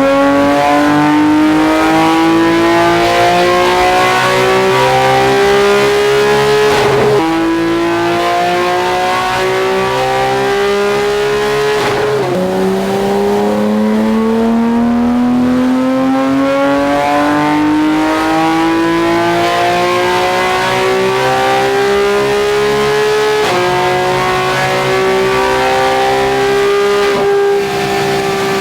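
Porsche 991 GT3 4.0-litre flat-six with a sports exhaust accelerating hard. Its pitch climbs slowly and evenly, then drops back at a few gear changes, most sharply about twelve seconds in.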